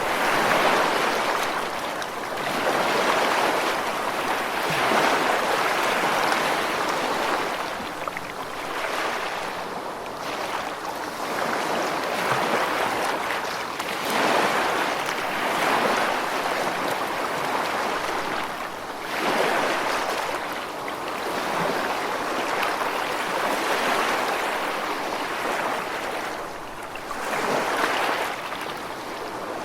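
Ocean waves washing in: a steady rushing hiss that swells and falls back every few seconds.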